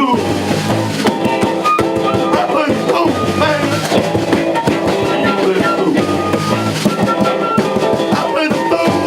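Live band playing a song, with guitar and drum kit, loud and continuous.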